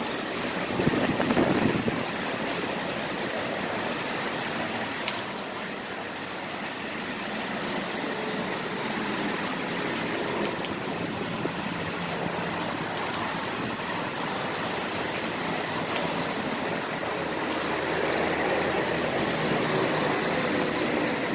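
Rain falling steadily, a constant even hiss. A low rumble builds over the last few seconds.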